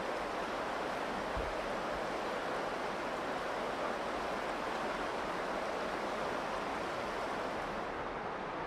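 Steady rush of the Virgin River's shallow water running over rocks.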